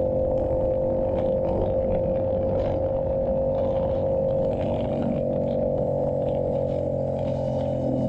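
Yamaha YZF-R7's 689 cc parallel-twin engine running through an aftermarket SC-Project exhaust, holding a steady note at a constant speed. Its pitch drops slightly about halfway through.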